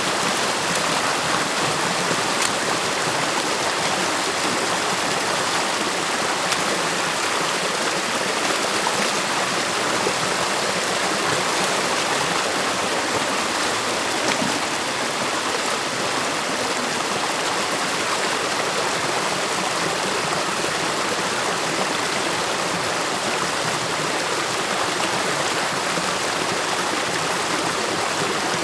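Stream water rushing steadily through a beaver dam, with an even, continuous rush of flowing water.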